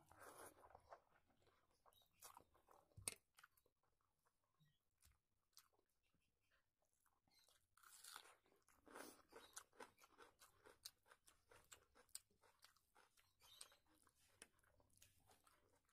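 Faint close-up chewing of hand-fed mouthfuls of rice and curry, with wet mouth sounds and small clicks. There is a sharp click about three seconds in and a quieter pause in the middle, and the chewing picks up again about eight seconds in.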